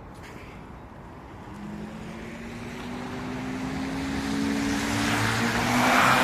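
A motor vehicle approaching and passing close by: its engine hum grows steadily louder, and tyre noise rises to a peak near the end as it goes past.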